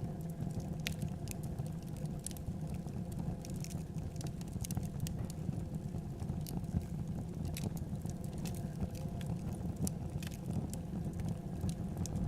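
Wood fire in a fireplace crackling, irregular sharp pops and snaps over a steady low rumble of the flames.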